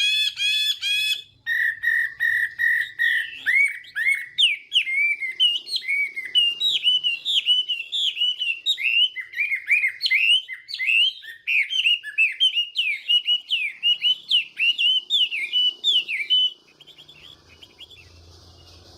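Chinese hwamei singing a loud, varied song of rapid whistled phrases, opening with a run of repeated even notes, then quick rising and falling phrases. The song stops a few seconds before the end, leaving a faint low hum.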